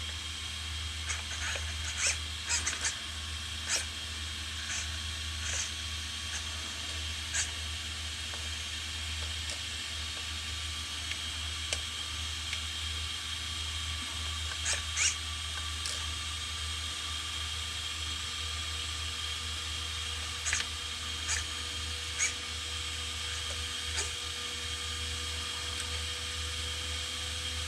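Steady low electrical hum with faint high steady tones and a faint tone slowly rising in pitch, broken by scattered small clicks and taps.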